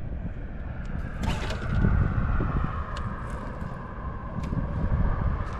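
Boat's electric trolling motor whining steadily, its pitch sagging and rising a little, over low wind rumble on the microphone. There are a few sharp clicks, the first about a second in.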